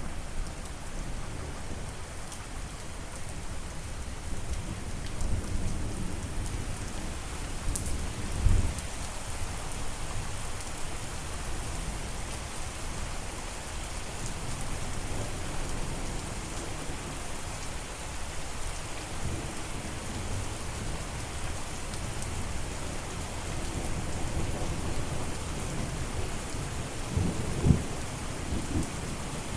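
Steady rain with low rumbling thunder underneath, and two short, louder low thuds of thunder, one about eight seconds in and one near the end.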